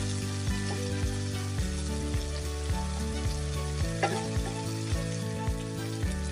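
Onions with frozen peas and carrots sizzling in melted butter in a skillet, with a few light knocks from stirring.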